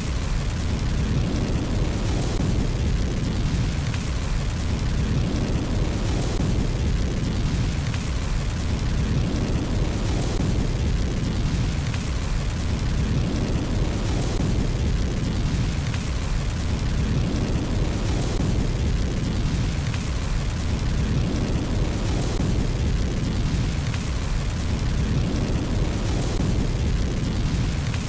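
Fire burning in a fireplace: a steady low rumble with crackles recurring every couple of seconds.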